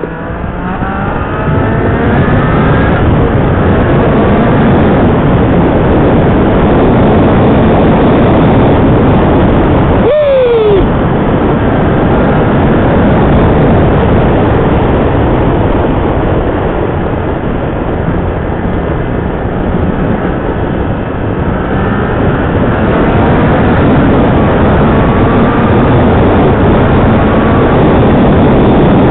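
Motorcycle engine pulling hard on a fast stretch of road, rising in pitch as it accelerates, with heavy wind rush over the rider's microphone. About ten seconds in the engine note drops sharply, as at a gear change, and it climbs again later on.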